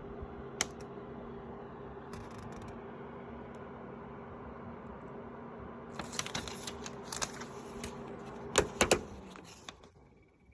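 Electric quartz tower space heater running with a steady hum. About six seconds in comes a run of clicks and knocks, the loudest near the end, and then the hum dies away.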